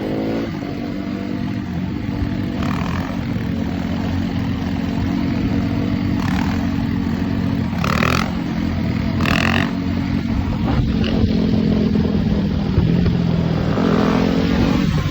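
Dirt bike engines running steadily at low revs, their pitch shifting only a little, with two short sharp higher sounds about halfway through.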